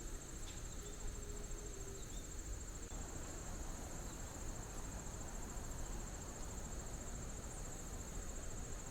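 An insect trilling steadily at a high pitch, a continuous fast pulsing buzz of the cricket kind, over a low rumble.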